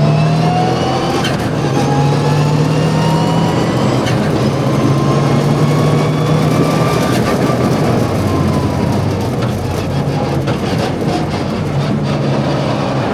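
Mitsubishi Evo VI Group A rally car's turbocharged four-cylinder engine under hard track driving, its note repeatedly rising as it accelerates and falling off between, with brief breaks at the shifts.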